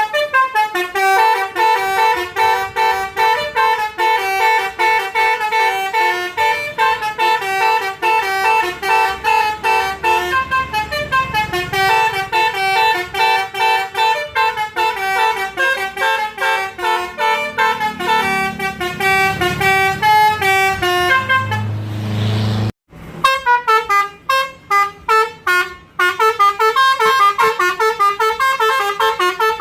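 Bus basuri horns, multi-tone musical air horns, playing fast melodic tunes note after note in a horn duel. A low rumble sits underneath from about 18 to 22 seconds in. The sound breaks off briefly about 23 seconds in and stutters for a few seconds before the tunes carry on.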